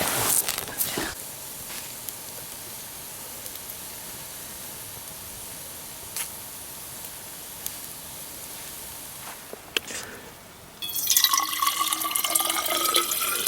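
Liquid poured into a container starting about eleven seconds in, a loud splashing pour whose pitch rises slowly as the vessel fills. Before it there is only a quiet steady hiss with a few small clicks.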